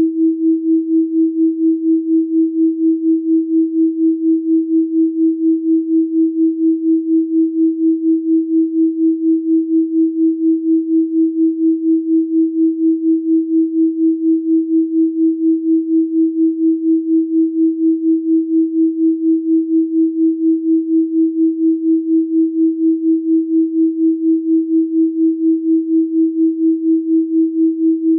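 Electronically generated pure sine tone at 324 Hz, held steady throughout, with an even, quick pulse in loudness a few times a second.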